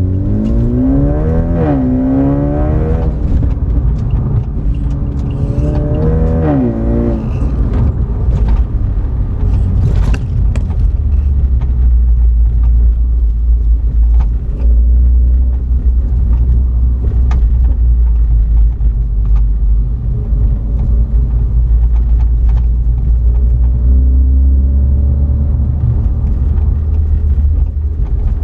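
BMW 330i's B48 turbocharged 2.0-litre inline-four exhaust pulling hard: the note rises in pitch, drops at a gear change about two seconds in and climbs again, then rises once more around six seconds in. After that it settles into a steady low drone while cruising, with a slight rise near the end.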